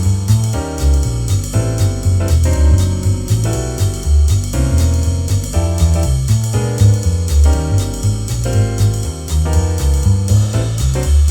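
Fast jazz backing track: walking bass, piano comping chords and drums with ride cymbal, with no melody instrument.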